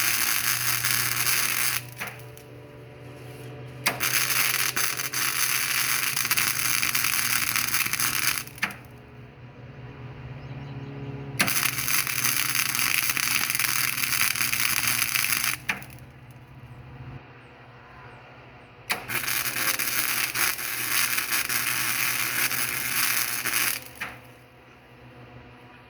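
Flux-core MIG welder arc crackling and sputtering in four runs of a few seconds each, stopping between them. A steady low hum runs underneath.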